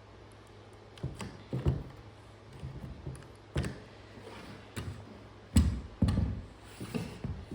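Irregular knocks and thuds of wooden boards being handled and knocked into place, about seven hits spaced unevenly, the loudest pair coming about three-quarters of the way through.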